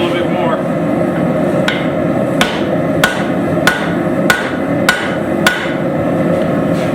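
Hammer blows on hot steel at the anvil: seven evenly spaced strikes, a little under two a second, each with a short metallic ring, beginning about two seconds in over a steady rushing background noise.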